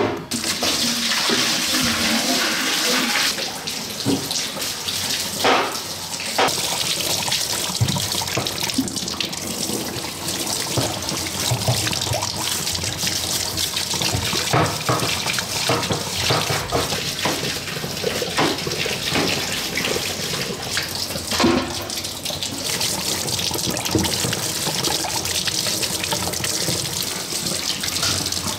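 Tap water running steadily into a stainless-steel sink while fresh bamboo shoots are scrubbed with a brush under the stream, with scattered knocks of the shoots against the sink.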